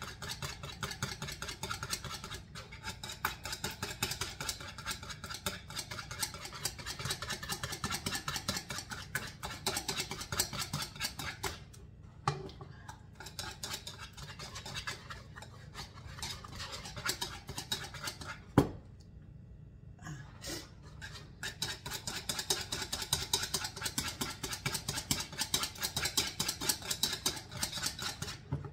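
Wire whisk beating butter and whiskey in a bowl: rapid scraping strokes against the bowl, pausing briefly twice, with one sharp knock about two-thirds of the way through. The butter is not quite soft enough, so the mixing is slow work.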